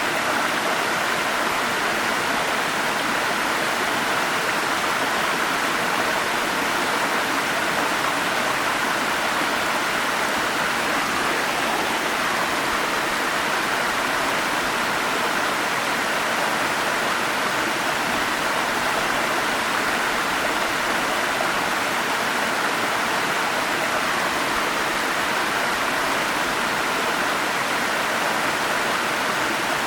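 Forest stream running steadily: a dense, even rush of flowing water that does not change.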